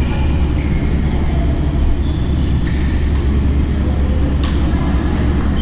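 Badminton rally: a few sharp racket-on-shuttlecock hits, the loudest a little past halfway, with short shoe squeaks on the court, over a loud steady low rumble.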